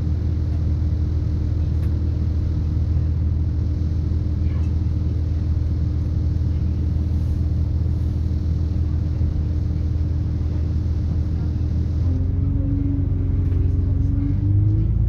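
Cabin sound of a British Rail Class 170 Turbostar diesel multiple unit: the underfloor MTU diesel engine and Voith hydraulic transmission running with a heavy rumble and a steady whine. About twelve seconds in the note changes, and a whine begins to rise steadily in pitch.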